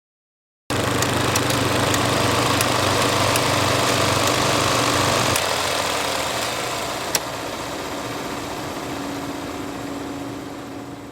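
Film projector running: a steady mechanical rattle with scattered sharp clicks. It starts suddenly about a second in and turns quieter about halfway through.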